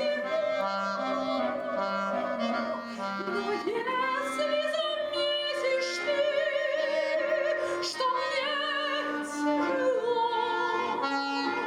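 A woman singing a slow song in a classical, operatic style, with wide vibrato on long held notes, over instrumental accompaniment.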